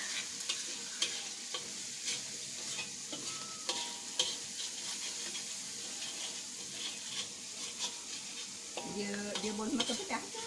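Sambal of chili paste and anchovies sizzling in oil in a wok, stirred with a metal spatula that scrapes and taps against the pan at irregular moments.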